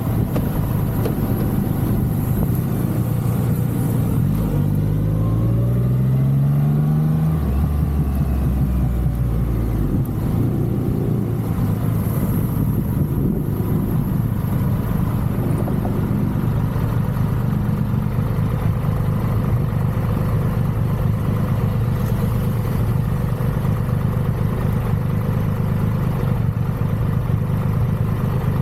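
Triumph Rocket 3's three-cylinder engine running, rising in pitch for a few seconds about five seconds in as the bike accelerates, then settling into a steady drone.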